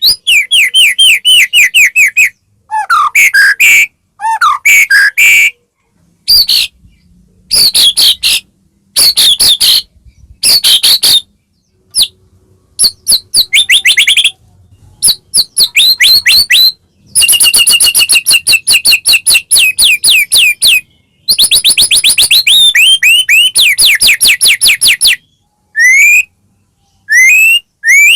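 White-rumped shama (murai batu) singing loudly in a run of short phrases, each a fast train of repeated whistled and sliding notes, with brief pauses between phrases.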